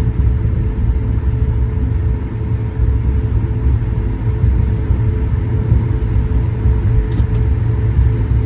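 Cabin noise inside an Airbus A220-100 with its engines at steady low power: a constant low rumble with a steady hum over it.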